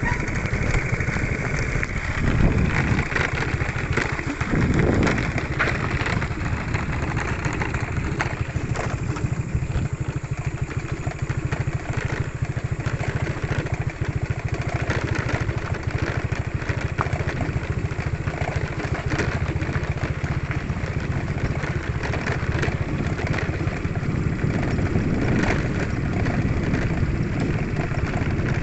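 Motorcycle engine running steadily while riding, swelling briefly twice in the first few seconds.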